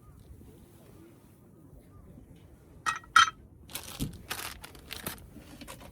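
Two sharp clinks with a slight ring about three seconds in, followed by several shorter clattering knocks, like cooking utensils or tongs knocking on metal or glass.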